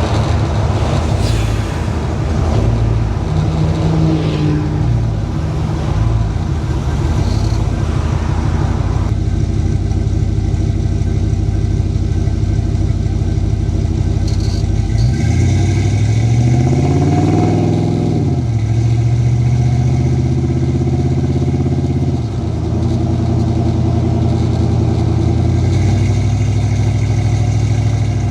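Ford 7.3L Godzilla V8 with custom exhaust running at highway speed, with a rushing road noise over the first third. About halfway through, the engine note climbs in pitch for a couple of seconds and then drops back.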